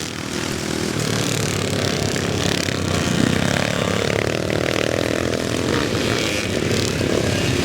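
Classic motocross motorcycle engines revving hard on the track. One engine's pitch drops about three seconds in and then climbs again.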